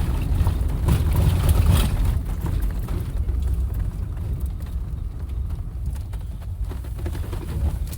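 Off-road vehicle driving over a rough dirt trail, heard from inside the cab: a steady low rumble with scattered knocks and rattles, louder for the first couple of seconds.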